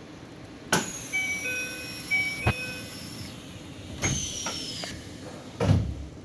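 Keikyu 1000 series train's sliding doors closing: a sudden hiss with a falling high whine, a few short electronic tones and a sharp knock, then a second hiss and a heavy thump as the doors shut, over the train's steady low background hum.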